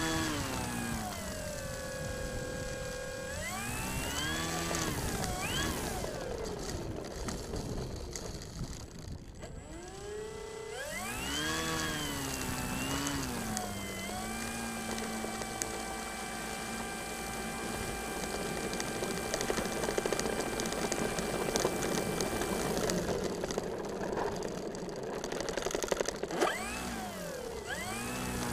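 Finwing Air Titan RC plane's twin electric motors and propellers whining as the throttle is blipped, the pitch sweeping up and falling back several times. The whine is held at a steady pitch for several seconds in the middle, and there are more quick throttle blips near the end.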